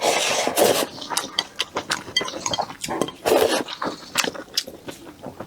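Close-up eating of noodle soup: noodles slurped in two long bursts, one in the first second and one about three seconds in, with wet chewing and light clicks and clinks of utensils between.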